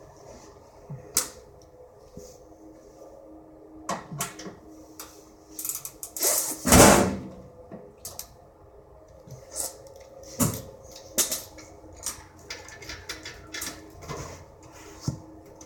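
Coleman furnace blower assembly being worked out of its sheet-metal cabinet: scattered knocks, clunks and scrapes of metal on metal, with one louder, longer clunk about seven seconds in.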